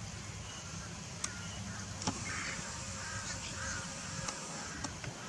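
Birds calling with short, repeated chirps over a steady background hiss and hum, with a few sharp clicks.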